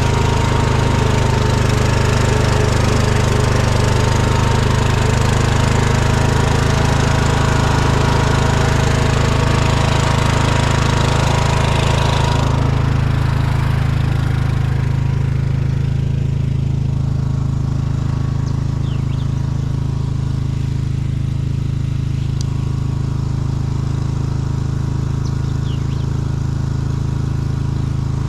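Riding lawn tractor's engine running steadily while it drives, a deep even hum. The higher hiss and rattle over it drops away about twelve seconds in, leaving the engine hum.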